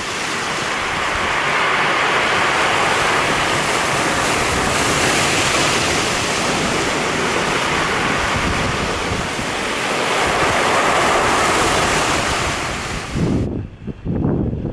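Rough sea surf, waves breaking and washing in as a loud, continuous rush of noise. It cuts off abruptly near the end and gives way to gusty wind buffeting the microphone.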